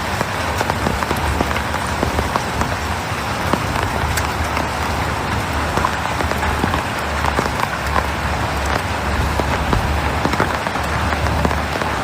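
Heavy rain pouring down, a dense steady hiss with many small drop impacts pattering on surfaces, and a low rumble underneath that comes and goes.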